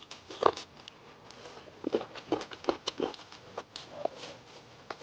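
Close-up eating sounds: irregular clicks and smacks of chewing and mouthing food.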